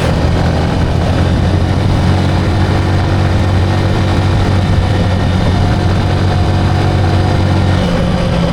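Motorcycle engine running steadily at an even pitch over a hiss of road and wind noise, its pitch shifting near the end.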